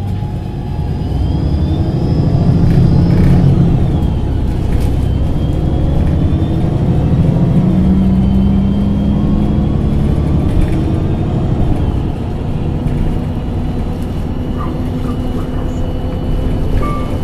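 MAN NG273 LPG-fuelled articulated city bus accelerating, its engine getting louder over the first few seconds and then rising slowly in pitch. After that it runs at a steadier, slightly lower note.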